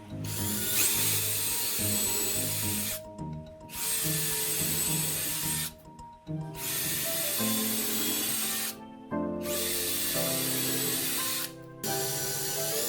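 A handheld power tool running at full speed, stopping briefly four times between runs, over background music.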